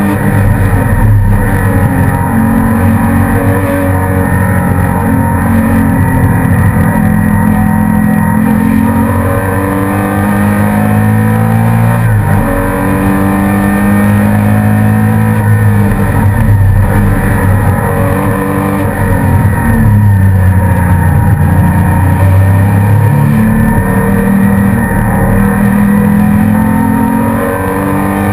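Porsche Cayman S race car's flat-six engine at racing speed, heard from inside the cockpit. Its revs climb and drop back several times, with sharp breaks in the pitch.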